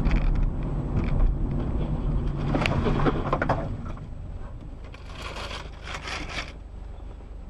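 Road vehicle rumble with a cluster of scraping, crunching strokes about three seconds in, then a stretch of hissing noise, fading to a quieter rumble.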